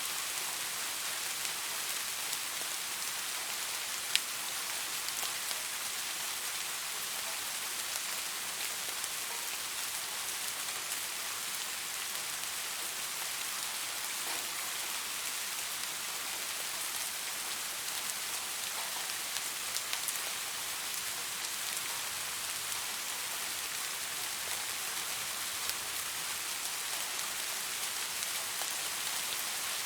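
Steady rain falling on leaves: an even hiss scattered with small sharp drop ticks, with one louder drop about four seconds in.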